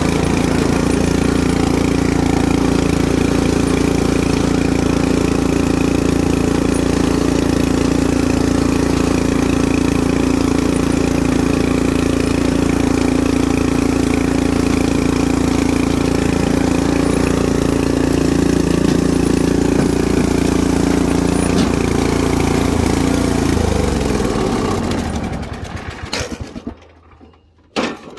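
Riding lawn mower engine running steadily, then switched off about 23 seconds in, its pitch sinking as it winds down to a stop. A few knocks follow near the end.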